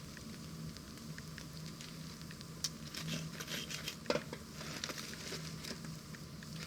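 Wood fire crackling, with scattered small pops, a busier patch a little under three seconds in and a sharp pop about four seconds in.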